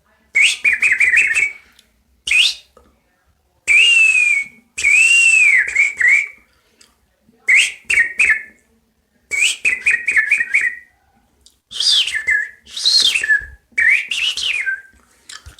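A man whistling bird-like calls by mouth: about nine short phrases of warbling trills and rising-and-falling glides, each with a breathy hiss, separated by brief pauses.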